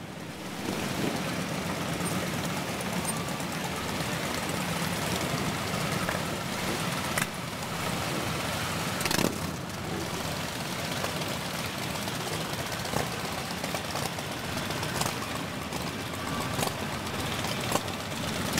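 Motorcycle engines idling steadily, with a few sharp clicks or knocks.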